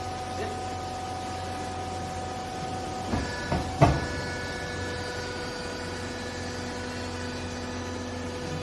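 Hydraulic clothes baler's motor and pump humming steadily, with a few sharp knocks about three to four seconds in. The hum changes note after the knocks.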